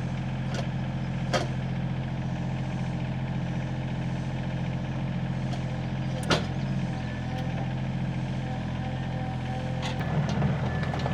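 SANY excavator's diesel engine running steadily while setting a beam, with two sharp knocks, about one and a half and six seconds in, the second the loudest. Near the end the engine gets louder and a thin steady whine comes in.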